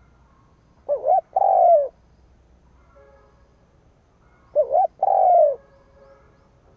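Spotted dove cooing twice, about three and a half seconds apart. Each phrase is a quick double note followed by a longer, falling coo.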